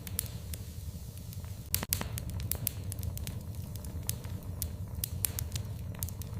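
Wood fire crackling in a fireplace: irregular sharp pops and snaps over a steady low rumble of the flames, with a louder cluster of pops about two seconds in.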